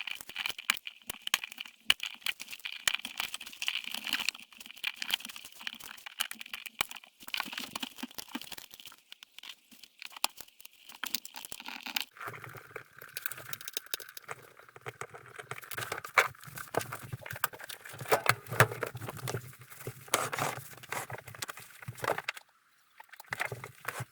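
Repeated clicks, rattles and crinkling of parts being handled. About halfway a low steady hum starts, and it stops a couple of seconds before the end.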